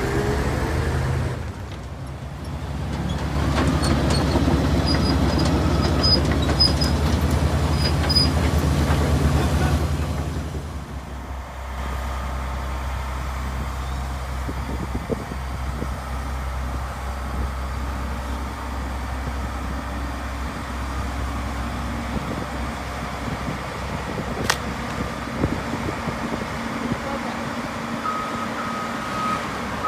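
Heavy diesel engine running, louder for several seconds near the start and then settling to a steady lower run. Near the end a reversing alarm starts beeping.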